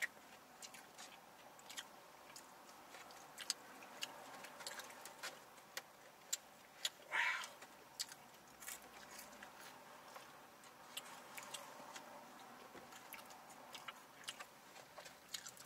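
Faint chewing of fries and chicken, with many small scattered mouth and food clicks. One short, louder breathy swish about seven seconds in.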